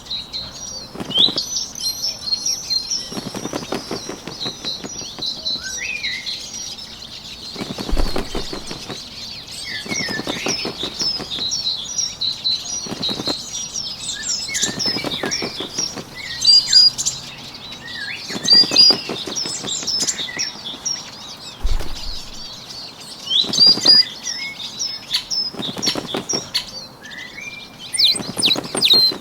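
Sound-effect track of small birds chirping and twittering continuously, with a short burst of fluttering wingbeats every two to three seconds.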